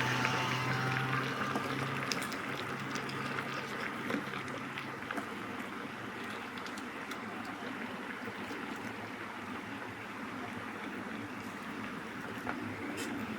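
Water bubbling at the boil in an electric kettle, a steady seething with small pops, under a low hum that fades about five seconds in.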